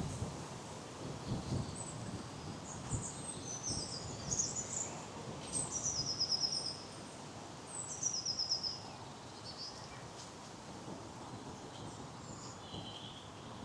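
Small songbirds singing in the trees: scattered high chirps and two short phrases of quick, falling notes about halfway through. Beneath them is a steady low background rumble with faint footsteps on a path.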